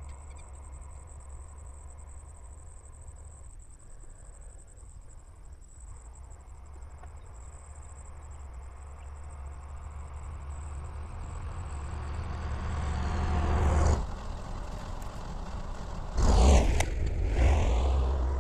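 Tractor engine running steadily, pulling a plow, growing louder as it comes closer. It drops suddenly about 14 seconds in, then is loudest a couple of seconds later as it passes close.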